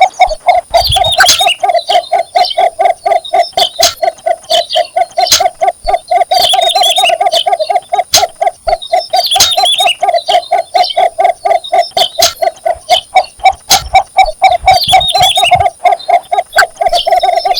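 Cinnamon bittern giving its mating advertisement call: a long, unbroken run of rapid low clucking notes, about five a second. Another bird gives brief higher chirps several times.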